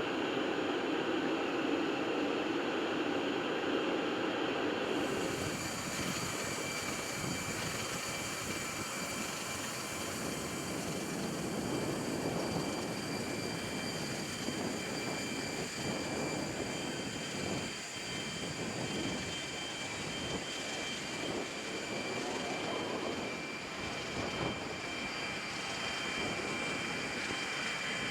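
Jet airliner engines running steadily. About five seconds in the sound changes and several high steady whining tones come in over the rush.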